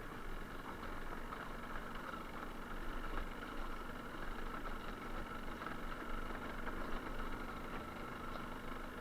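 Suzuki TS125R's two-stroke single-cylinder engine running at a steady speed, with some hiss underneath.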